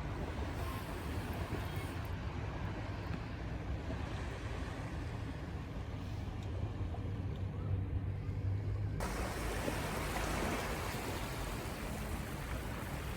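Surf on the shore with wind buffeting the microphone, a steady low rumble under a hiss. About nine seconds in the sound changes abruptly to a brighter, hissier wash.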